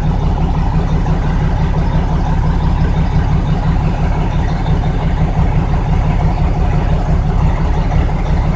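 Log truck's diesel engine running steadily at low revs while working through deep mud.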